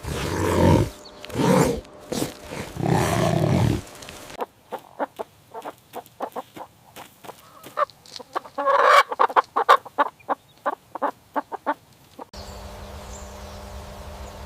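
Chickens clucking: a few louder, longer calls, then a quick run of short clucks. Near the end it cuts to a steady low hum.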